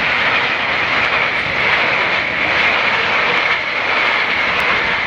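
Closing fireworks barrage, many shells and crackling bursts going off so densely that they merge into one steady, loud roar without distinct separate bangs.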